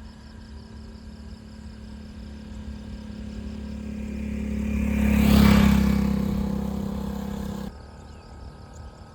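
A motor vehicle passing: its engine and road noise grow louder over several seconds, peak a little past the middle, then fade before cutting off suddenly near the end, over a steady low hum and crickets.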